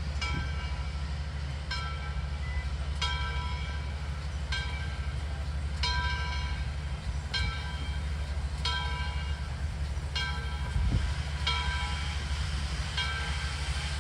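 A bell strikes about once every second and a half, each stroke ringing with several overtones, over the steady low rumble of a diesel locomotive's engine.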